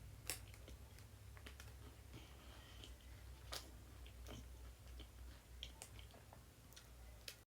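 A person chewing food close to the microphone, with scattered soft wet mouth clicks, over a faint steady low hum; the sound cuts off suddenly near the end.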